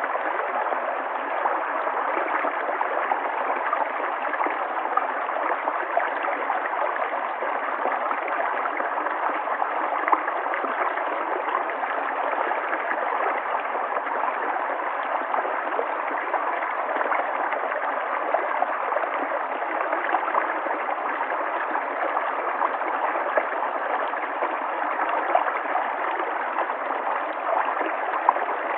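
River water flowing steadily, an even rushing with no low rumble.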